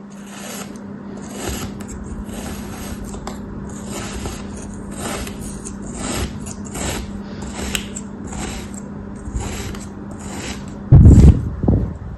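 Repeated slicing strokes of a blade cutting through a crumbly material such as soap or kinetic sand, short crisp scrapes about one and a half a second, over a steady low hum. A loud, heavy thump about eleven seconds in.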